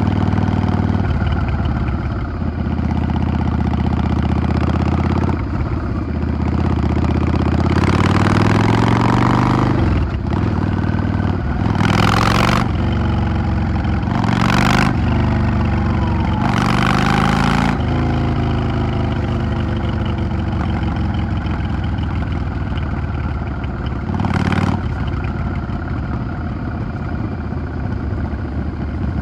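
Yamaha XVS 650 V-Star's air-cooled V-twin engine running under way, its note rising as the bike accelerates and falling back as the throttle closes, twice. A few brief whooshing noises come through over the engine.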